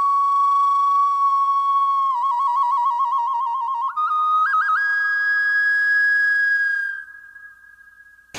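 Solo flute music: one clean, sustained melodic line with quick trills about two seconds in, then a step up to a higher held note around four seconds in, fading away near the end.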